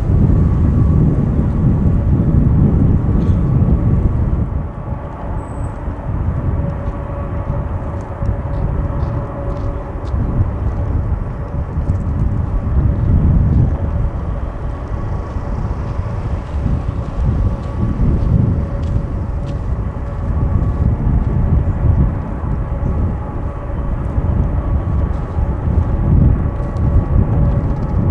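Boeing 747-400 jet engines running with a steady whine over a deep rumble that swells and fades, with wind buffeting the microphone.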